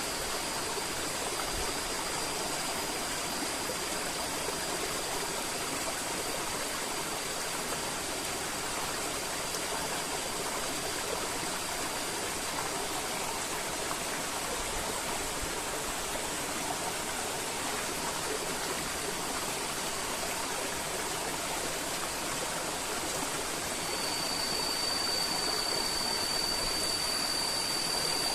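River water flowing and rushing steadily. A thin, steady high-pitched tone sounds over it, fading out about halfway through and coming back louder near the end.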